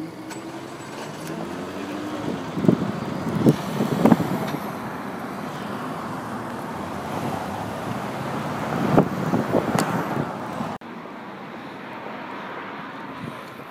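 A car engine accelerating past, its pitch rising over the first couple of seconds amid traffic noise. Several sharp loud bursts come about three to four seconds in and again around nine to ten seconds, and the sound drops off abruptly near the end.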